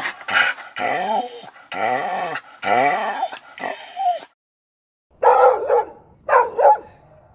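A dog giving a quick run of about seven high, pitched cries that rise and fall, then, after a short break, two lower, rougher barks about a second apart.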